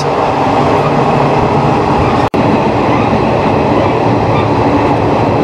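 Express train running at speed, heard from a coach doorway: a loud, steady rush of wheels on the rails and passing air. The sound drops out for a split second about two seconds in.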